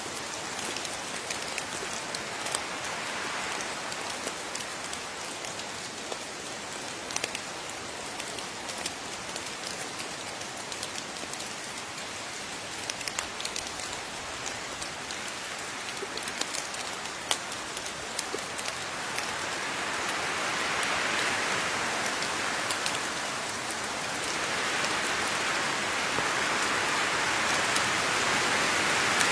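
Steady rain falling, with individual water drops ticking sharply over the hiss. It swells heavier about two-thirds of the way through and stays heavier near the end.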